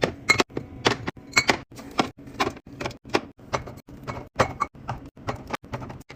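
A rapid, uneven series of hard clacks and knocks, about two or three a second, as containers and food items are set down, slid and clinked into place in a fridge.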